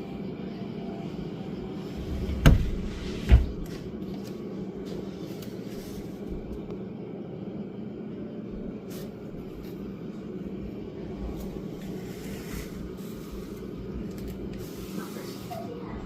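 A steady low hum, broken by two sharp knocks a little under a second apart, about two and a half seconds in.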